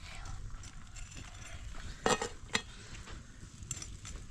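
Cooking pot and utensils being handled: scattered clinks and knocks, two sharp ones about two seconds in, over a low steady rumble.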